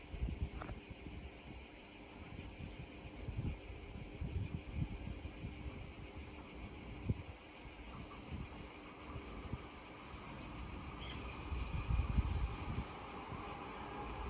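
Steady high-pitched insect chorus, with gusts of wind buffeting the microphone. A faint rumble builds over the last few seconds.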